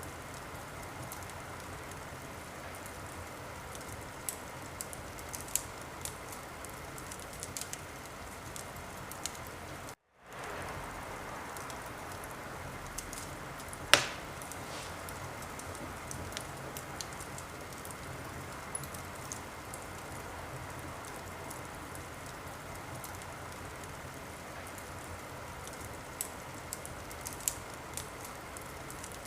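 Wood fire crackling steadily, with scattered small pops and one loud sharp pop about halfway through. The sound cuts out completely for a split second about a third of the way in.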